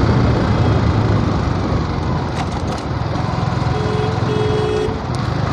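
Motorcycle riding along a road, its engine a steady low hum under heavy wind rush on the microphone. About four seconds in, two short steady tones sound, one after the other.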